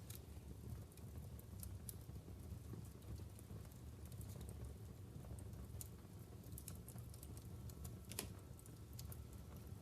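Wood fire burning in a fireplace: a low steady rumble of flames with irregular sharp crackles and pops from the logs, the loudest pop about eight seconds in.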